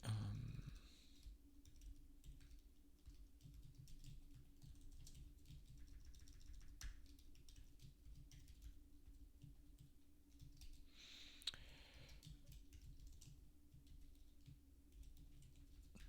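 Soft computer keyboard typing: a steady run of quiet key clicks, with a low thump at the very start and one louder clack about eleven seconds in.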